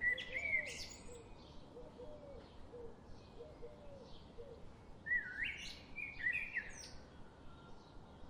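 Forest birdsong: one bird sings a loud, high, quick phrase at the start and again about five seconds in. Fainter chirps from more distant birds repeat throughout, and a low, soft series of repeated notes runs through the first half.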